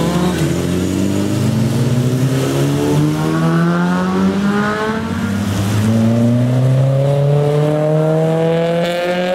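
Car engine accelerating: its pitch climbs steadily for several seconds, drops at a gear change about five seconds in, then climbs again.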